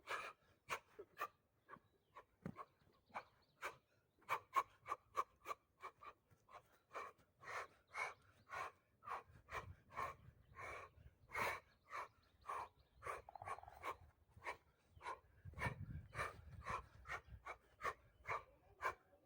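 Fast, even panting: short breaths at about two to three a second.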